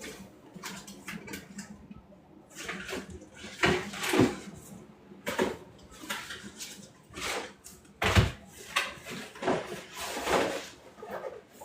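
Irregular household handling noises: short clatters, knocks and rustles coming every second or so, with one heavy thump about eight seconds in.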